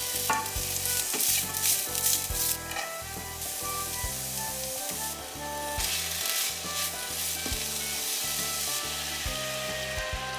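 Onion, maitake mushrooms and shrimp sizzling in a hot nonstick frying pan while being stir-fried with a spatula, the sizzle swelling and fading as the food is moved around.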